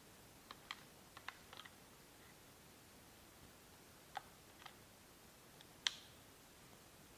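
Near silence broken by a handful of faint, sharp clicks and ticks, the loudest about six seconds in.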